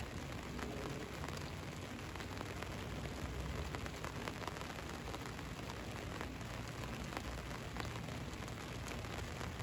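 Rain falling on a van, a steady patter with scattered sharper drop ticks over a low rumble.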